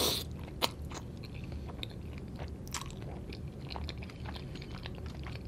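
Close-miked chewing of a mouthful of creamy Cajun fettuccine, with many small wet mouth clicks and a short slurp of noodles right at the start.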